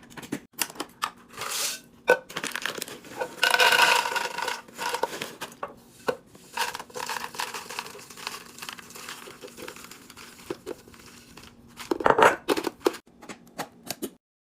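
Packaging being crinkled and torn open, with clicks and knocks of items being handled. There is a longer stretch of rustling about three to five seconds in and another loud burst near the end, then it stops abruptly.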